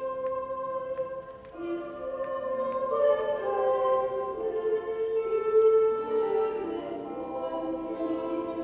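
Choral singing as background music: slow, sustained voices holding long notes that change every second or so.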